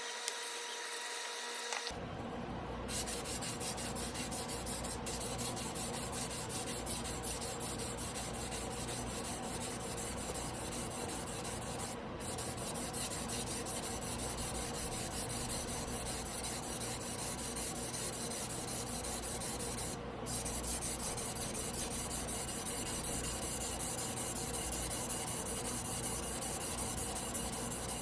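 Tojiro Damascus carbon-steel yanagiba being sharpened by hand on a whetstone: a steady scraping of steel rubbing across the stone. It starts about two seconds in, with brief breaks twice.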